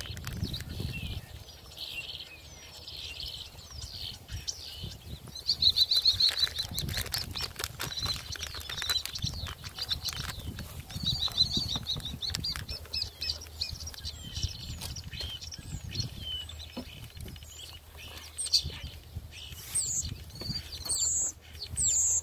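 Small birds chirping and twittering in short repeated runs, over the low rumble of wind on the microphone.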